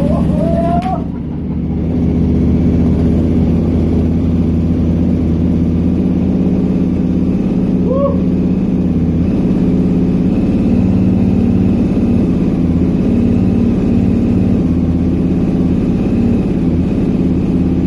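Motorcycle engine idling steadily, dipping briefly about a second in.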